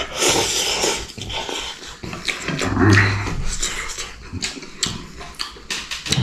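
Close-up eating sounds: instant noodles slurped in a hissing rush, then wet chewing and lip-smacking clicks, with a short low hum about three seconds in.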